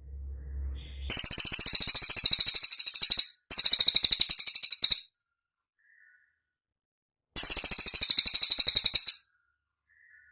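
Cililin bird singing three fast, high-pitched trills of rapidly repeated notes, about ten a second, the first two back to back and the third a couple of seconds later.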